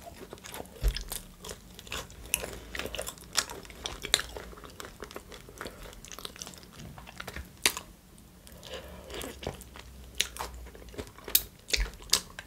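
Close-miked chewing of salted french fries and chicken shawarma: irregular wet mouth clicks and soft crunches. Near the end comes a bite into the shawarma.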